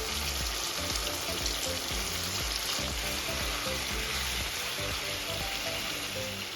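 Chicken and tomato sauce sizzling in a saucepan on the heat, with background music.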